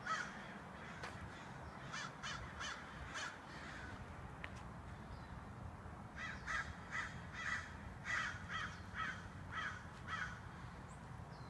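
Crows cawing in quick runs of short, harsh calls: about five calls a couple of seconds in, then a longer run of about ten from about six seconds in, over a low steady rumble.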